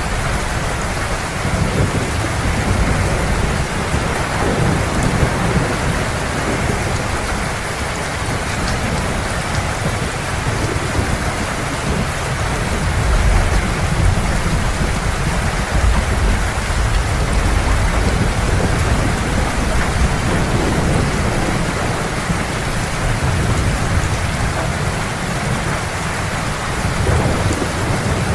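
Heavy rain falling in a steady downpour, with low rolling thunder rumbling underneath that swells a little past the middle and again near the end.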